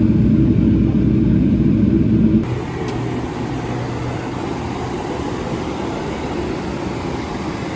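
Steady low rumble of a vehicle in motion, which cuts off abruptly about two and a half seconds in and gives way to a quieter, more even hum of steady noise.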